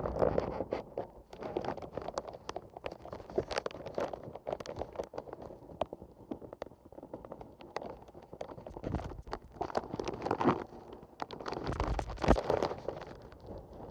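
Gusty dust-storm wind buffeting the microphone, with many irregular crackles and clicks throughout and louder gusts in the second half.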